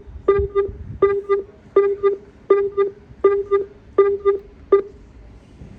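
Electronic warning beeper at a railway platform, sounding a double beep roughly every three-quarters of a second, about seven times, and stopping about five seconds in.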